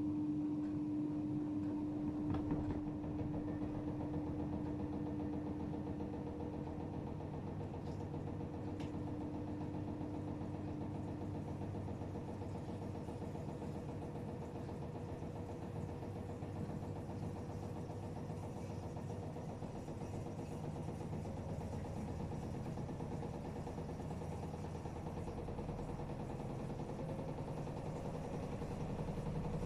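AEG Öko-Lavamat 76910 washing machine running mid-cycle, its inverter-driven three-phase motor giving a steady hum with humming tones. One tone fades out over the first ten seconds or so, there are a couple of faint clicks in the first few seconds, and a low rumble grows near the end.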